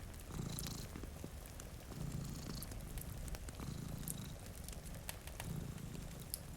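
Cat purring, rising and falling in four slow swells about a second and a half apart, over a steady hiss of rain, with scattered sharp crackles from a wood fire.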